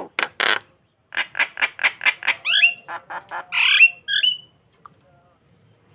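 A jalak (starling) calling: a fast run of harsh squawking notes, about five a second, broken by short rising squeaky whistles, with a final harsh note and whistle about four seconds in before it falls quiet.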